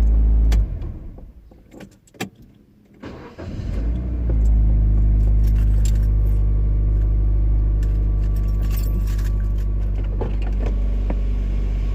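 Car engine idling with a steady hum, which the owner finds odd-sounding, is switched off about half a second in; after a couple of seconds of near quiet with a light click, it is started again and settles back into a steady idle, with light clicks and jingles over it.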